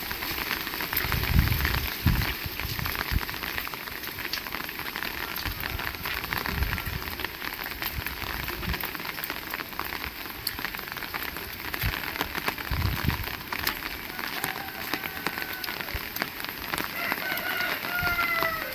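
Heavy rain falling steadily on surfaces, with a few short low thuds along the way.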